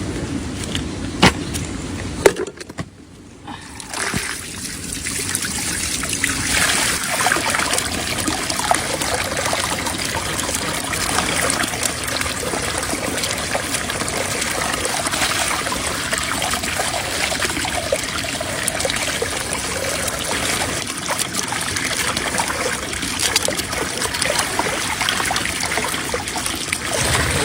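Water running and trickling steadily, after a couple of sharp knocks and a brief lull near the start.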